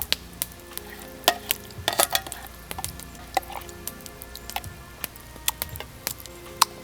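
Food sizzling in a pan over a campfire and being stirred, with irregular sharp clicks and pops of the utensil against the pan.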